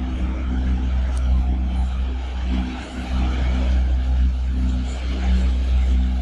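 An engine running steadily: a continuous low rumble with a steady hum.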